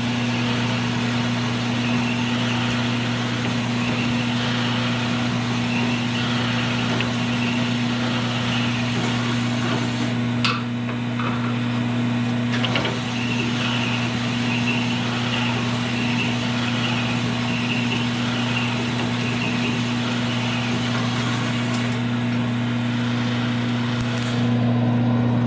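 A machine running steadily with a low, even hum, with a sharp tap about ten seconds in and another a few seconds later, while a part is worked down to size.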